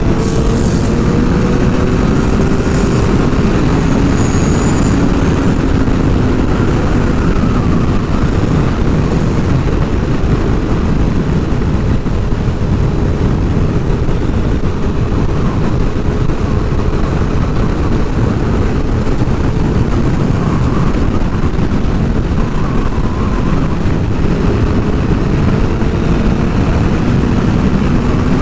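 Sport bike riding at speed: steady wind rushing over the microphone, with the engine's drone underneath drifting slowly up and down in pitch.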